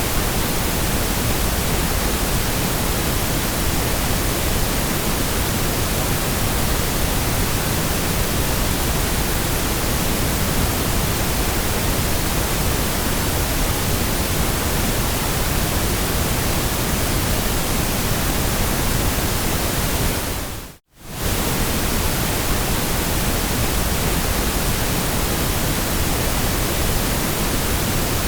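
Steady white noise, an even full-range hiss slightly heavier in the low end, like pink noise. About 21 seconds in it fades briefly to silence and straight back in.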